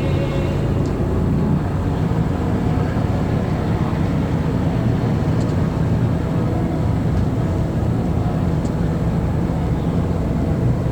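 Sightseeing boat's engine running steadily: a continuous low drone heard on board.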